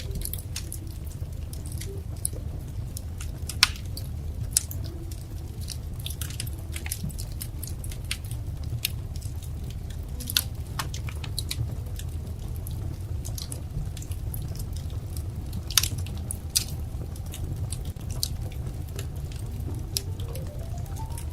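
Wood fire crackling: a steady low rumble with irregular sharp crackles and pops, two of them louder, about three and a half seconds in and again near sixteen seconds.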